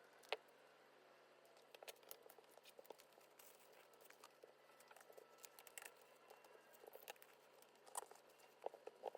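Faint, scattered small clicks, taps and crinkles of hands handling sticker sheets and paper while decorating a binder. The sharpest tick comes just after the start, and a few more come close together near the end.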